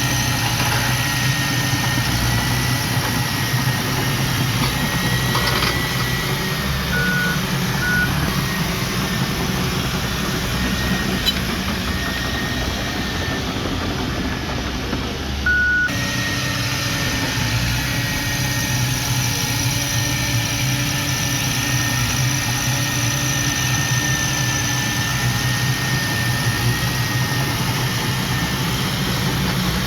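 Heavy diesel earthmoving equipment engine running steadily, with a high thin whine over it. There are two short beeps about seven seconds in and another about halfway through, where the sound shifts abruptly.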